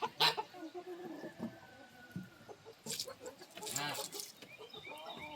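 Backyard chickens clucking and calling in short separate bursts, with rows of quick high chirps in the second half.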